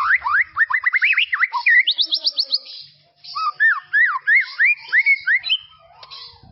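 White-rumped shama (murai batu) singing: a fast run of rising whistled notes that climbs to a quick high flourish, a brief pause about three seconds in, then a second phrase of looping rising whistles.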